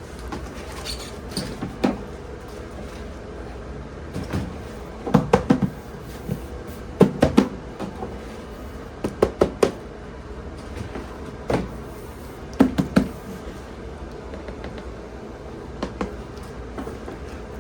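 Handling noises: a series of hard knocks and clacks, grouped in short clusters of two to four every second or two, over a steady faint hum.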